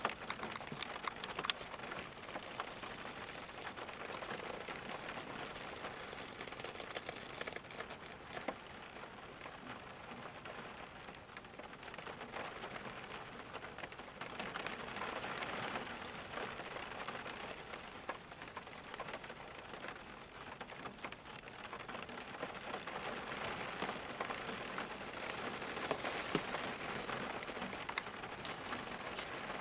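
Steady rain falling, a dense patter with individual drops ticking through it, growing heavier for a few seconds in the middle and again near the end.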